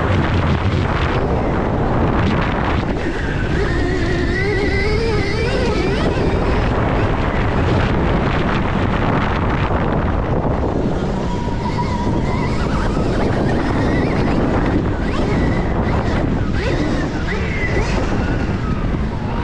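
Heavy wind rushing over the microphone as a Stark Varg electric dirt bike is ridden, with the electric motor's thin whine rising and falling in pitch as the throttle changes.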